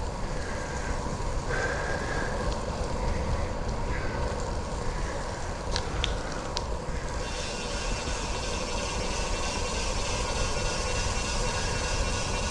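Steady riding noise from a bicycle on a wet trail: a low rumble of wind and tyres, with a couple of faint clicks about six seconds in.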